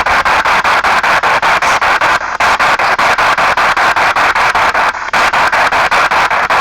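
P-SB7 spirit box sweeping through radio stations: a loud hiss of static chopped about seven times a second as it jumps from frequency to frequency.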